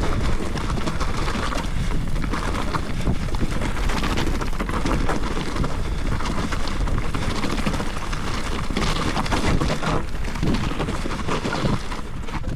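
Wind buffeting the microphone over a steady rattling clatter, as from a mountain bike being ridden over rough ground.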